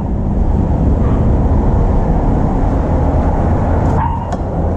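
Steady low rumble of road traffic, with a few short clicks near the end.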